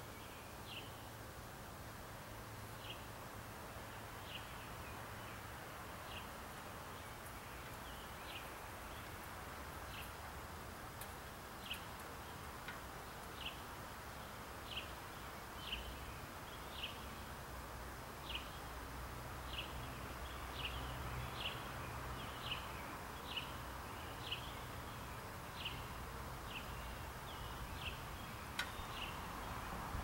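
A small bird chirping: one short, high chirp repeated over and over, coming faster over time, from about one every second or two to nearly two a second. A single sharp click sounds near the end, over a steady low rumble.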